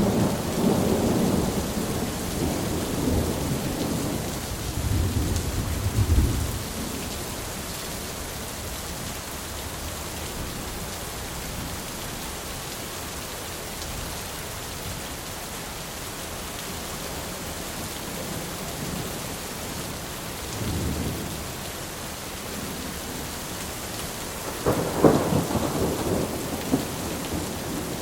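Thunderstorm with steady rain. Thunder rumbles over the first six seconds and fades, a brief low rumble comes about two-thirds of the way through, and a sharper, louder clap of thunder comes near the end.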